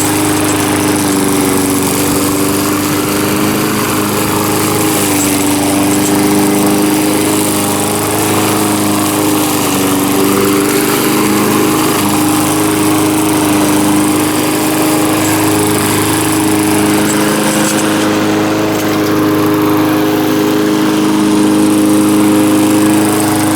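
Small gasoline lawn mower engine running steadily at an even speed, not that loud even with its muffler loose and flopping around.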